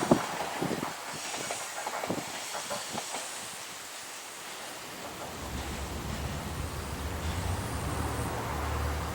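Diesel railcar coming to a stop: wheels clunking over rail joints as it slows, with a hiss, then the diesel engine idling as a low steady hum from about five seconds in.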